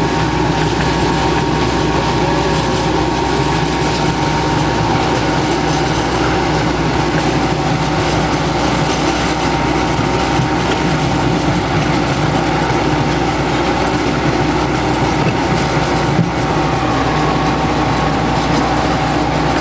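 Park ride-on train running along the track, heard from aboard: a steady engine drone and rumble of the cars on the rails, with no change in pace.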